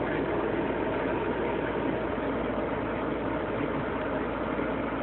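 Steady mechanical hum with an even noise, unchanging throughout.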